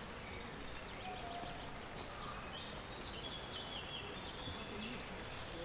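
Songbirds singing short high trills over a steady outdoor background hush, with one louder song sliding down in pitch near the end.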